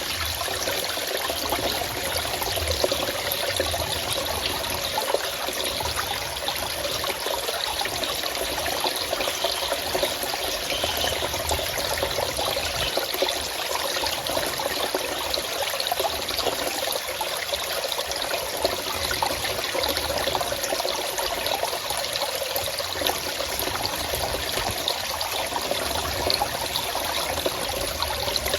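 Forest stream flowing and trickling over rocks, a steady rush of running water.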